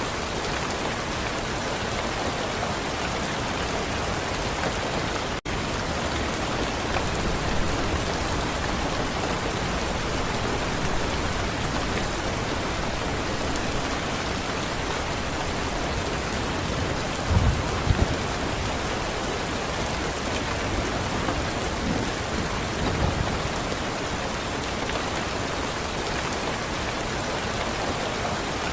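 Steady, even rain hiss, with a couple of brief low rumbles about two-thirds of the way through. The sound cuts out for an instant about five seconds in.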